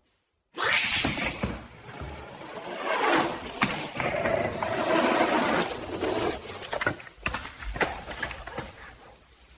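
An angry caracal hissing and growling in loud, noisy surges, with a deeper growl held in the middle and a few sharp scuffing clicks near the end.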